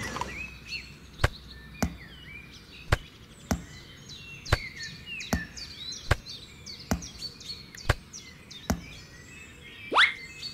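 Small white pebbles clicking sharply one at a time as they are set into a little woven basket, about ten clicks at uneven spacing, with birds chirping behind. Near the end come several quick rising pop sound effects.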